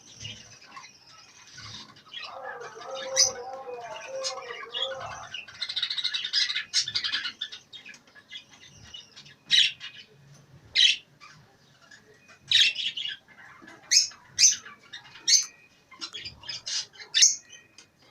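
Many cage birds chirping and calling together, with a lower wavering call a couple of seconds in and sharp, loud shrill calls standing out again and again in the second half.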